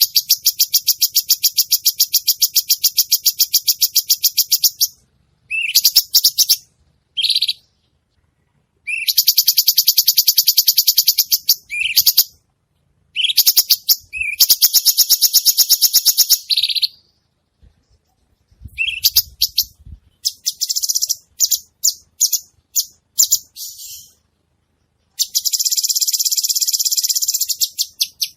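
Cucak cungkok songbird singing in long, loud, rapid trills, each bout opening with a rising note and running a few seconds. Between bouts come shorter bursts and a stretch of scattered, broken notes.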